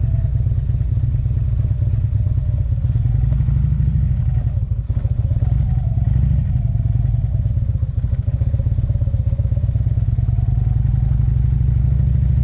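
Motorcycle engine running at low speed with a steady low rumble during a slow turn, easing off briefly twice.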